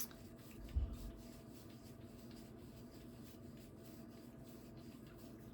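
Quiet room tone with a faint steady hum and a soft low thump just under a second in.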